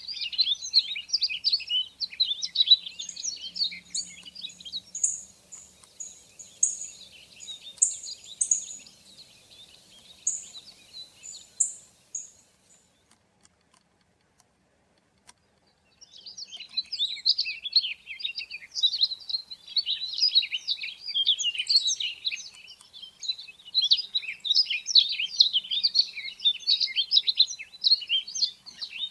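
A dense chorus of small songbirds twittering and chirping, with a run of thin, high single notes partway through. The chorus breaks off to near silence for about three seconds near the middle, then starts again just as dense.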